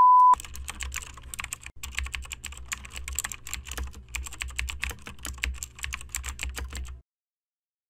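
A brief steady high test-tone beep that cuts off right at the start, then a keyboard-typing sound effect: rapid, irregular key clicks that stop abruptly about a second before the end.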